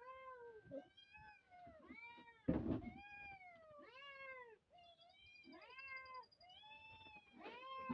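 Domestic cat meowing over and over, about ten rising-and-falling meows each under a second long. A brief clatter comes about two and a half seconds in.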